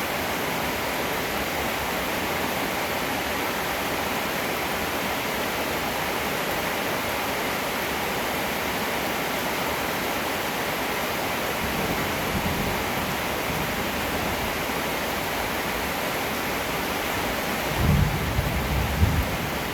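Heavy rain falling in a steady hiss. A faint low rumble of thunder comes about twelve seconds in, and a louder, short rolling thunder rumble comes near the end.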